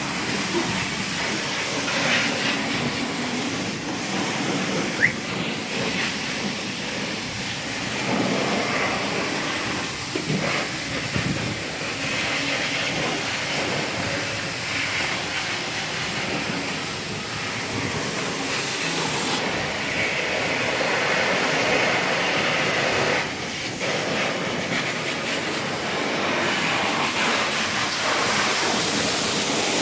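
High-pressure washer spraying water onto a car, a steady hissing rush that swells and dips as the jet moves over the surfaces.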